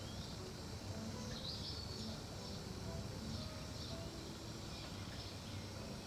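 Small birds chirping in short, repeated phrases over a low, steady outdoor background hum.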